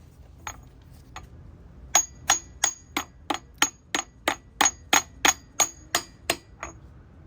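Hammer striking a 46 mm socket used as a driver to seat a front crankshaft seal: two light taps, then a steady run of about fifteen ringing metallic blows, roughly three a second.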